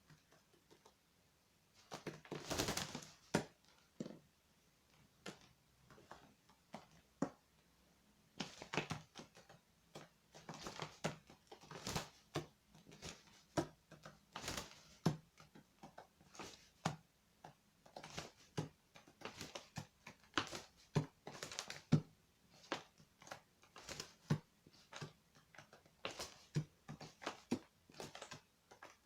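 A magpie pecking and jabbing at a spider on a hard surface: irregular sharp taps and knocks, with a few longer scratchy rustles.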